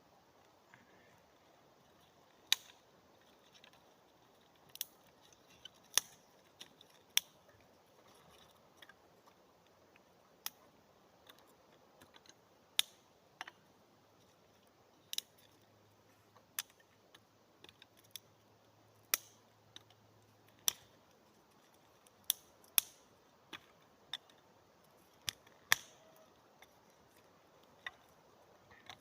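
Dry wood being handled for a campfire: sharp, irregular clicks and snaps of small sticks and board pieces breaking and knocking together, a few every couple of seconds.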